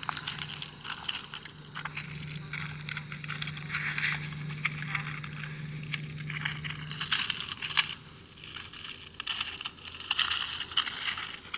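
Footsteps crunching and scraping on gravel track ballast, uneven with louder crunches here and there. A steady low hum runs underneath for the first seven seconds or so, then stops.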